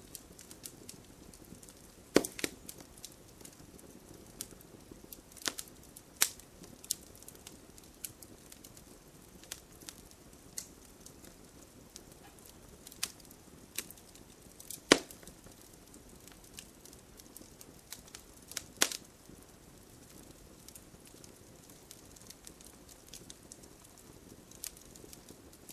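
Wood fire crackling: a low hiss from the burning logs with scattered sharp pops, the loudest about two seconds in, midway and near nineteen seconds, and quieter ticks between.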